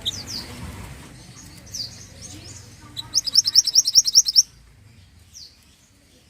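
Songbird sung as a mantenan song-training recording: a few high down-slurred whistled notes, then a loud, rapid trill of about a dozen notes lasting over a second, and a single falling note near the end.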